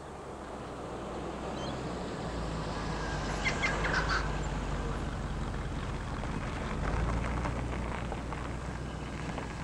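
A car engine running at low revs as the car creeps along the road, growing louder over the first few seconds and swelling again about seven seconds in. A few short chirps come about three and a half seconds in.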